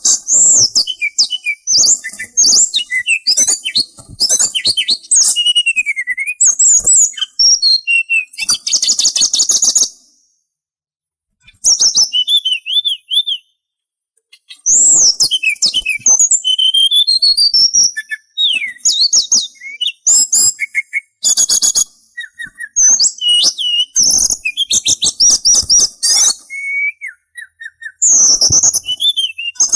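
Sulingan songbird singing a fast, varied song of high whistled slurs and rapid trills, broken by a couple of short pauses.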